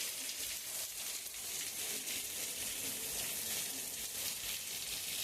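Heavy rain falling and pattering on surfaces, a steady dense hiss.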